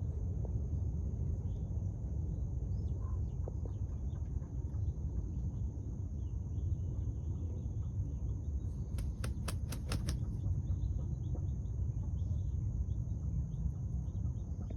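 Outdoor farmyard ambience: a steady low rumble, a continuous high insect drone and faint scattered bird chirps. About nine seconds in comes a quick run of about seven sharp clicks.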